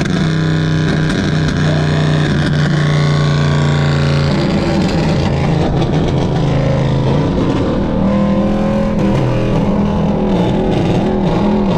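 Lexus RC F's 5.0-litre V8 droning at steady cruising revs, its note shifting a few times as the revs change.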